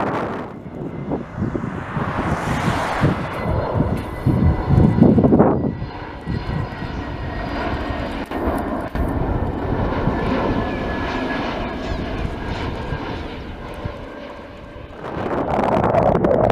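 Airbus A321neo's twin CFM LEAP-1A turbofans passing on final approach: a steady jet hum with faint whining tones. Wind buffets the microphone at times, loudest near the end.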